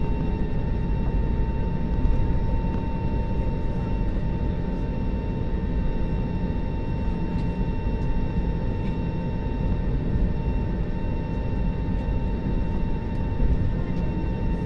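Airliner cabin noise: a steady jet-engine and airflow roar with a constant hum of engine tones.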